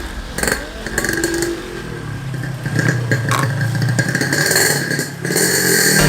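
A vehicle engine running steadily on the move.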